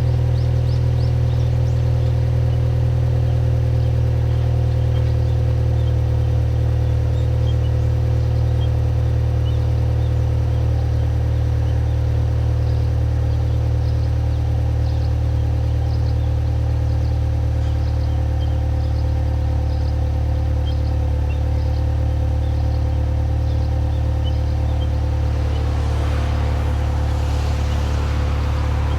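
Exhaust of a Subaru Legacy B4 2.0GT's turbocharged EJ20 flat-four, running through an HKS ES Premium aftermarket muffler, idling with a steady low rumble. Near the end a hissing rush rises over it.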